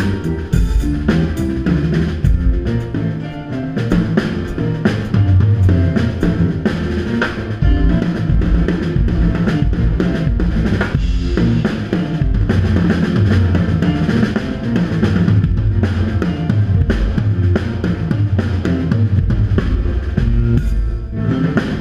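Instrumental band music with keyboard, electric guitar, bass guitar and drum kit playing steadily, ending on a final hit near the end that rings out.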